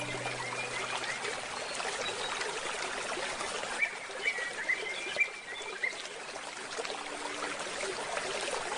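Trickling stream with a bird chirping in short, quick notes, mostly in a run near the middle. A sustained handpan note dies away at the start.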